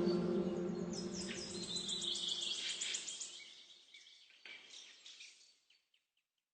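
Small birds chirping and twittering in quick high runs, over the fading tail of a steady low backing tone; the chirps thin out and stop about five and a half seconds in.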